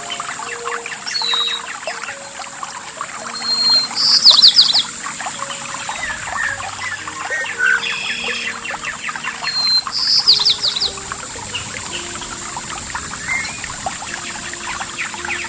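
Birds singing and chirping over the steady trickle and splash of flowing water from a stream or small waterfall. One bird gives a loud, quick descending trill twice, about four seconds in and again about ten seconds in.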